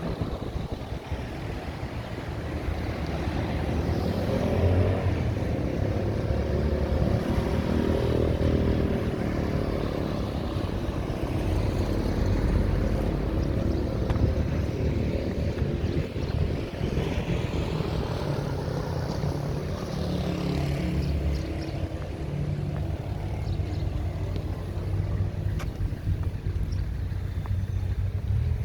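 Road traffic: motor vehicles passing one after another under a continuous low engine rumble, with louder swells as vehicles go by about four seconds in and again around eighteen to twenty seconds in.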